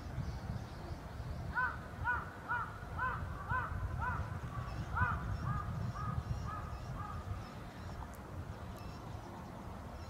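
A bird calling a run of about a dozen short, arched calls, about two a second, starting about one and a half seconds in and growing fainter toward the end. A steady low rumble lies underneath.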